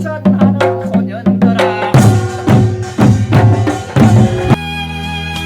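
Korean pungmul folk music: rhythmic drum strokes, about four to five a second, with pitched tones over them. About four and a half seconds in, the drumming stops and gives way to steady, held instrumental notes.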